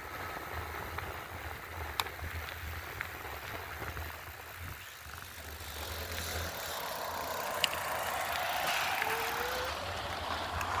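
Electric bike being ridden: tyre noise over a steady low wind rumble on the microphone, the tyre hiss growing louder in the second half, with a few light clicks.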